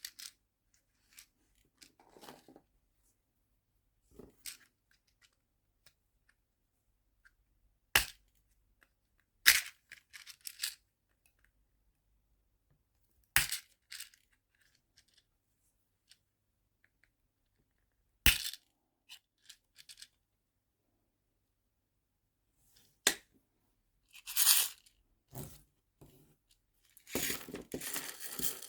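Nail-art charms and small plastic storage boxes being handled: single sharp clicks and taps every few seconds, then a busier run of clicks and plastic rustling near the end.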